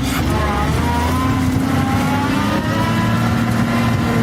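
A motor vehicle's engine revving with changing pitch, then settling into a steady hum.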